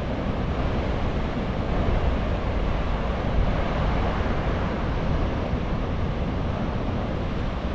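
Atlantic surf washing in steadily, with wind rumbling on the microphone.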